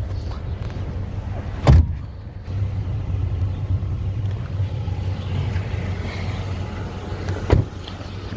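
2012 Nissan Titan's 5.6-litre V8 idling with a steady low hum, with two sharp thumps, one about two seconds in and one near the end.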